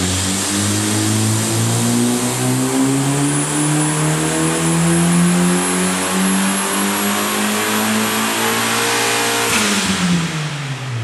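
Turbocharged Honda H23A1 four-cylinder doing a full-throttle dyno pull. The revs climb steadily for about nine and a half seconds with a thin high whine rising alongside them. Near the end the throttle closes: there is a short rush of air, likely from the blow-off valve, and the revs fall away quickly.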